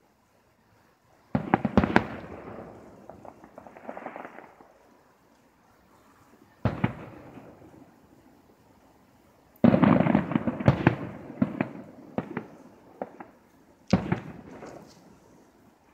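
Aerial firework shells bursting overhead. There is a cluster of bangs about a second and a half in, a single bang near seven seconds, a quick run of bangs from about ten to thirteen seconds, and one more bang near the end. Each bang trails off in a rumbling echo.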